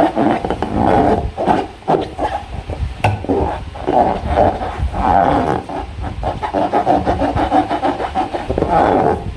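Slime and rubber balloons being squeezed and rubbed by hand: an irregular run of squelching and rubbing sounds with a few sharp clicks.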